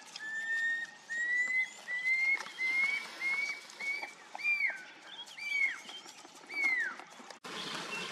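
A bird singing a series of about ten clear whistled notes, each a little higher than the one before; the later, louder notes drop sharply at the end. The sound cuts off suddenly near the end.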